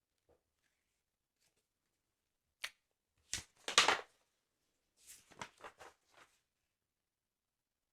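Paper handling on a football sticker album: a single tick, then a louder crackle of paper about three and a half seconds in, then a quick run of short rustles.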